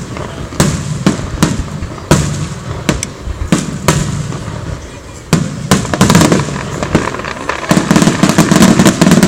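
Aerial fireworks bursting: a string of separate sharp bangs, then a dense, rapid run of bangs and crackles over the last second and a half, the loudest part.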